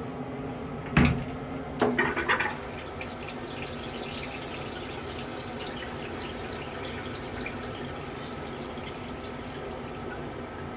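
Restroom sink faucet on a Metro-North M3 railcar. A thump about a second in, the loudest sound here, and a few clicks are followed by water running steadily for about eight seconds.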